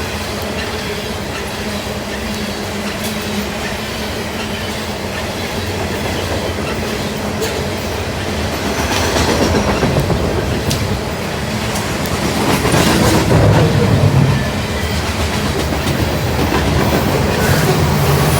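Freight train rolling past, its cars' steel wheels clacking over the rail joints, swelling louder about halfway through.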